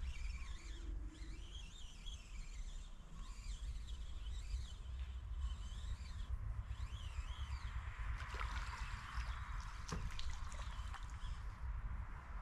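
A songbird singing short, repeated warbling phrases over a steady low wind rumble on the microphone. From about two-thirds through, a hiss rises and a few sharp clicks sound.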